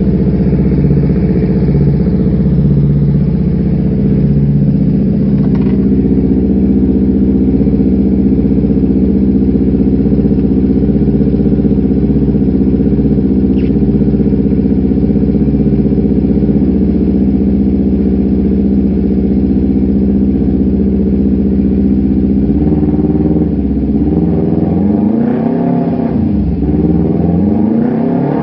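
Motorcycle engine running through an aftermarket Proliner carbon-fibre exhaust, idling steadily for most of the time, then blipped a few times near the end with the pitch rising and falling quickly.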